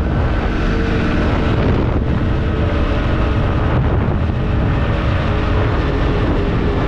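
Quad bike engine running steadily while riding, with wind buffeting the microphone.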